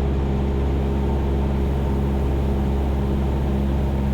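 Cessna 172's piston engine and propeller running steadily at cruise power, heard from inside the cockpit as a constant low drone with several fixed tones.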